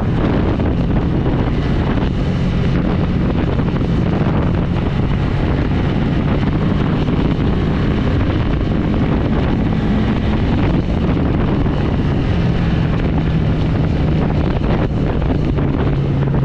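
KTM 390's single-cylinder engine running while the motorcycle is ridden on sand, its note shifting up and down with the throttle, with heavy wind noise on the microphone.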